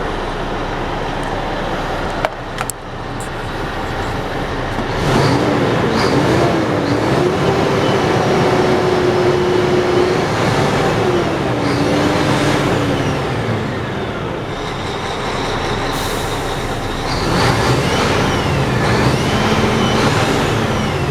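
Scania R440 truck's six-cylinder diesel engine running, its pitch climbing and holding, then falling, twice over as engine speed goes up and down. There is a sharp click about two seconds in.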